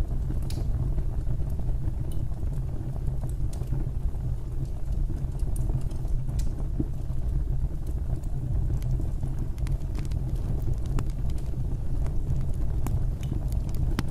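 Fireplace fire burning and crackling: scattered sharp pops and snaps at irregular intervals over a steady low rumble.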